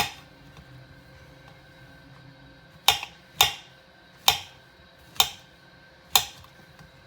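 Kitchen knife slicing through mushrooms and knocking on a chopping board: one sharp knock at the start, then after a pause five more, about one a second.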